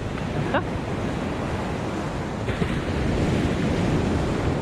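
Surf breaking and washing up the beach, with wind buffeting the microphone; the wash swells louder about halfway through. A short rising squeak is heard about half a second in.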